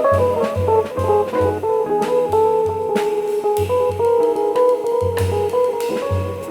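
Instrumental jazz-samba trio playing live: electric guitar carrying the melody over a walking bass line and drum kit with brushes or cymbals keeping time.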